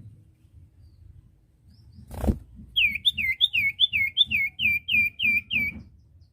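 A common iora (cipoh) singing a rapid run of about a dozen repeated down-slurred whistled notes, about four a second. A single sharp click comes just before the song starts.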